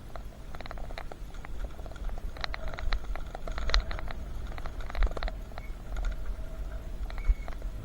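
Bicycle ridden over a rough, wet path: tyres crunching and the bike rattling in a scatter of clicks, busiest in the middle, over a low wind rumble on the microphone.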